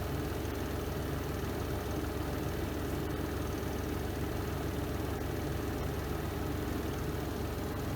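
Spin drum of a Renova semi-automatic twin-tub washing machine spinning at speed: a steady, deep motor hum with a fast, even vibration.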